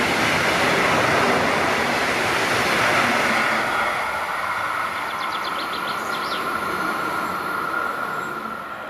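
Red double-deck regional trains running past on electrified track, wheels rushing on the rails. After about four seconds the sound drops and a steady high whine carries on.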